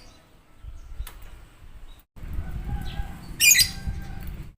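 A small songbird's call: one loud, very high, rapid chattering burst about three-quarters of the way in, played as a lure call to draw birds, over a low rumbling background.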